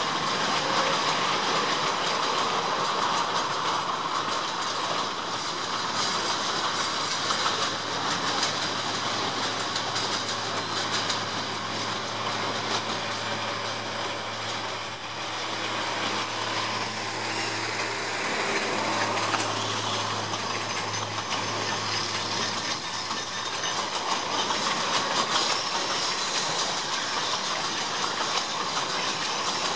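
A narrow-gauge peat railway train, a small diesel locomotive hauling a long rake of peat wagons, passes, with the wagons' wheels clicking and rattling over the rail joints. The locomotive's engine drone comes up about a third of the way in and fades out about two-thirds through.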